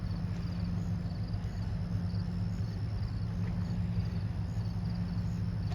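Crickets chirping in a steady rhythm, about two chirps a second, over a steady low hum.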